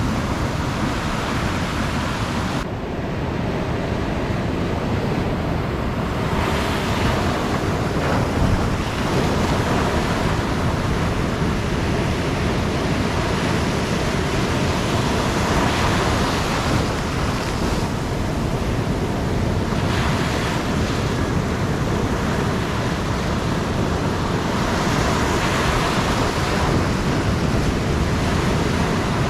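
Ocean surf breaking and washing up the beach in a continuous wash, rising and falling as waves come in every few seconds, with a deep rumble and wind buffeting the microphone.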